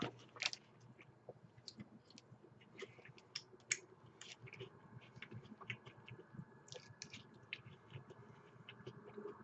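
Faint chewing of a mouthful of crispy chicken sandwich: irregular small crunches and mouth clicks.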